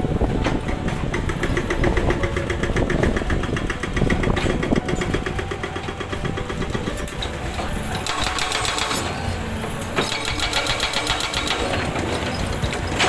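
Komatsu excavator's hydraulic rock breaker hammering rock in several runs of rapid, evenly spaced blows lasting a few seconds each, over the steady running of the excavator's diesel engine.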